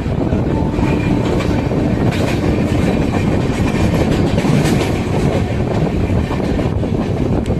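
A train in motion, a loud steady rumble with its wheels clacking over the rail joints in a run of sharp clicks.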